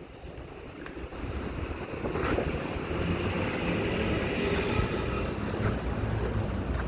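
Street traffic: a motor vehicle's running noise grows about a second in, then holds steady.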